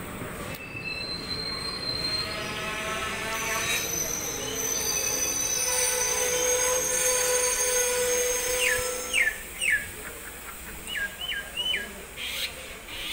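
Passenger train rolling slowly past a station platform, its wheels on the rails giving steady squealing tones over the rolling noise; the sound swells and then fades about nine seconds in.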